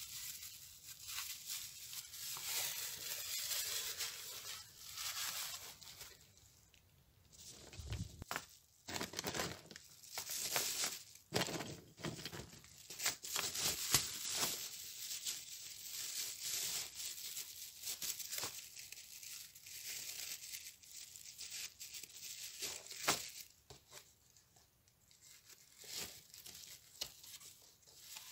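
Thin plastic bags rustling and crinkling as lumps of coal are packed into them, in spells with short pauses and a few sharp clacks.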